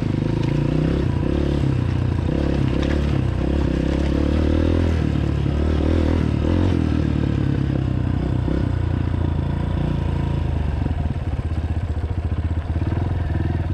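Honda CRF230F dirt bike's single-cylinder four-stroke engine running at low revs while crawling over rocks, the revs rising and falling with the throttle through the first half, then settling lower. Some clatter under the wheels.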